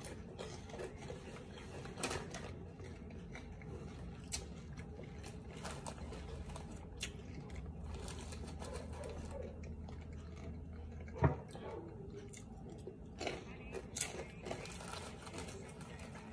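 Close chewing and crunching of crispy fried chicken intestines, with scattered small crackles and clicks from handling the snack and bowl. A sharp knock about eleven seconds in is the loudest sound, and a low hum runs through the middle.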